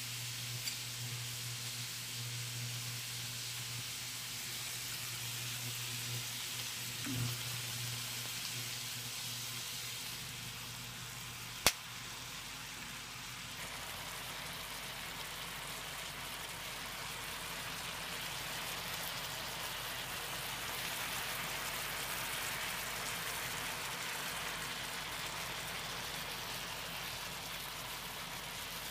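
Raw beef slices, rice, corn and leek sizzling steadily in a hot frying pan as the meat starts to cook, with a low hum under the first ten seconds and a single sharp click about twelve seconds in.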